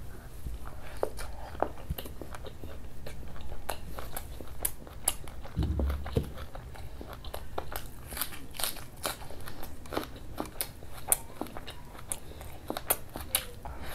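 A person chewing and biting food: mouthfuls of dal puri with mutton curry, then crisp crunches from biting into raw onion, heard as many sharp clicks. A dull low thump about six seconds in.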